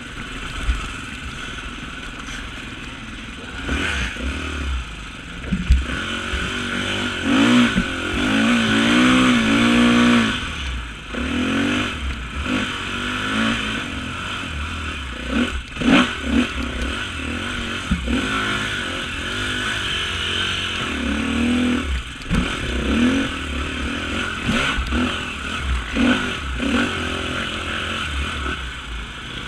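Off-road motorcycle engine revving up and down in repeated bursts over rough ground, loudest about eight seconds in, with clattering and a few sharp knocks.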